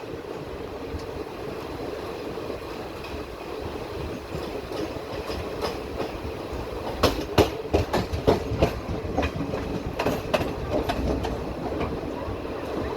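Passenger train rolling along the track with a steady rumble. Its wheels clack sharply over rail joints in a cluster about seven to eleven seconds in.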